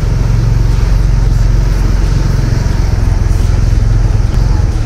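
Motorcycle engine running at a steady low speed, an even drone with no change in pitch.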